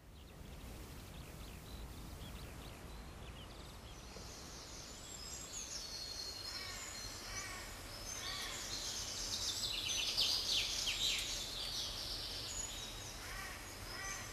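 Several birds singing outdoors, with overlapping songs of quick repeated chirps and trills that grow busier about halfway through, over a steady low background rumble.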